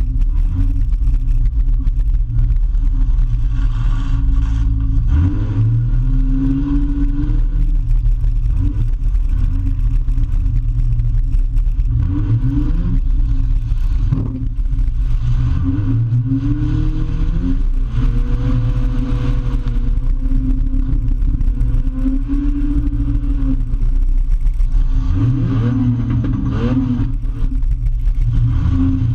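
Demolition derby car's engine running loud, heard from inside its stripped-out cabin, revving up and falling back several times as it drives.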